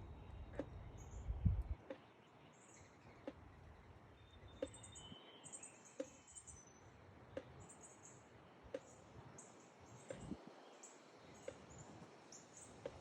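Small birds chirping in short, high calls, faint against the background, with a faint tick repeating about every second and a half. A brief low rumble sounds in the first two seconds.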